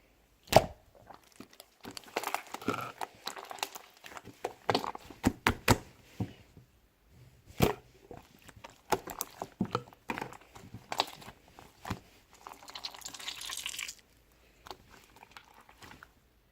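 Slime being squished and stretched by hand, giving irregular sharp clicks and pops with crackly squishing between them.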